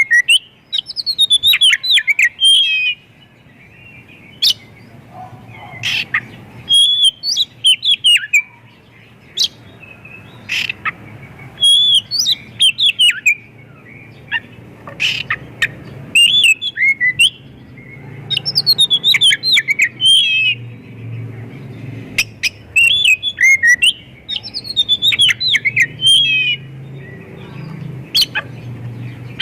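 Oriental magpie-robin (kacer) singing loudly in bursts of rapid whistled and warbled phrases, a new phrase every second or two with short pauses between. Its song is full of notes mimicked from other birds.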